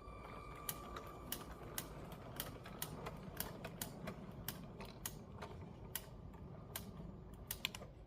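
Lego train rolling along plastic track, its wheels clicking sharply over the rail joints about twice a second over a low rolling rumble.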